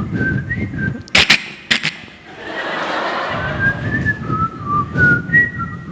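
A man whistling an imitation of a white-rumped shama's song: a string of short clear notes that hop up and down in pitch, with a couple of sharp clicks about a second in.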